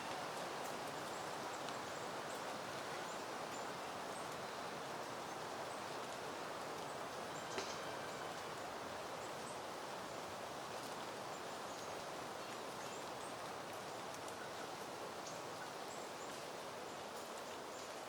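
Steady wind rustling through peony plants, an even soft hiss with a few faint ticks. A single short click stands out about halfway through.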